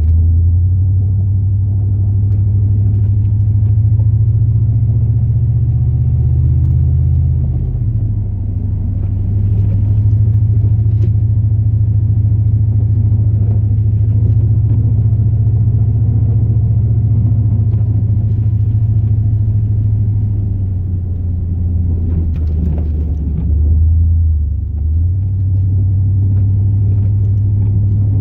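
Big-block 8.1-litre V8 gas engine of a Chevrolet Silverado plow truck running under way with a steady low drone, its pitch shifting about 8 seconds in and again near 24 seconds in.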